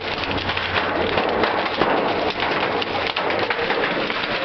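Hail and heavy rain pelting a car's roof and windshield, heard from inside the car: a dense, unbroken clatter of small hits.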